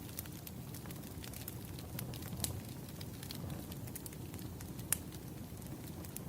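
Wood fire crackling: a steady low rumble of burning logs with scattered sharp pops and snaps, the loudest pops a little before halfway and about five seconds in.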